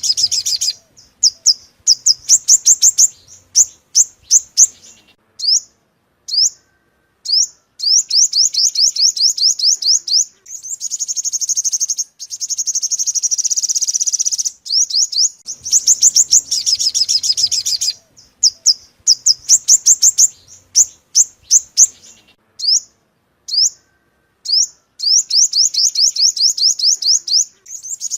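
Bird-lure recording of a yellow-bellied 'five-colour' songbird ('5 màu bụng vàng') calling. It gives rapid high trills and runs of sharp chirps, broken by short pauses, with a longer buzzy trill near the middle. The same sequence starts over about halfway through, as in a looped lure track.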